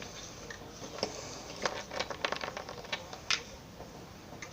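Small plastic toys being handled: an irregular run of light clicks and taps, bunched together about halfway through.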